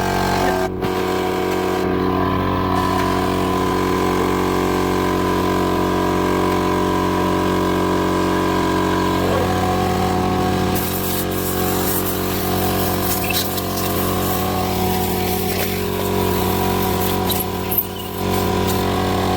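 Air compressor running steadily with a constant machine hum, with a few brief clicks and taps in the second half.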